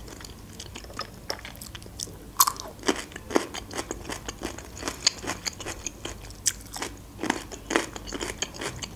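Close-miked crunching and chewing of pickled gherkins: a run of short, wet crackles and clicks, with a louder crunch about two and a half seconds in and a few more near the end.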